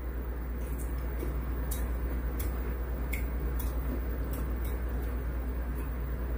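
Close-miked chewing: faint, sharp mouth clicks every half second or so at a slightly uneven pace, over a steady low hum.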